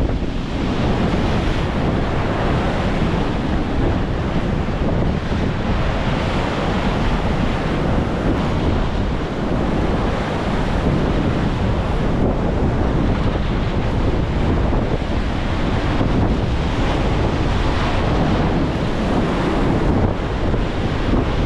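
Rough sea surf crashing and washing in, driven by a Force 7 wind on a spring high tide, with heavy wind buffeting on the microphone.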